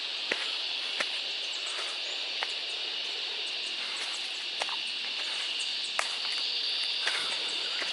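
Steady high-pitched insect chorus droning in the bush, with a few sharp clicks scattered through it.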